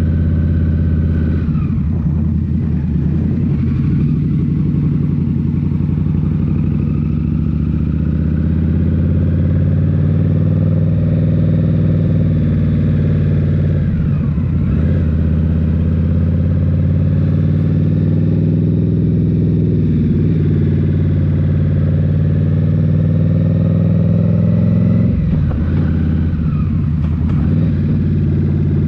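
2023 Indian Scout Rogue's 69 cubic-inch V-twin, through a Rinehart slip-on exhaust, running steadily under way. Its note dips and then climbs again about four times, at roughly two seconds in, around the middle, and twice more later on.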